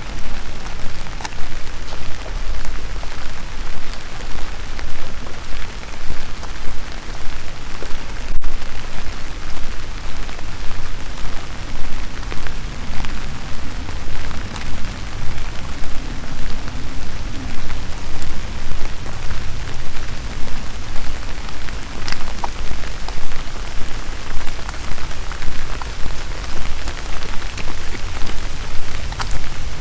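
Steady rain falling, with many individual drops ticking sharply, over a constant low rumble.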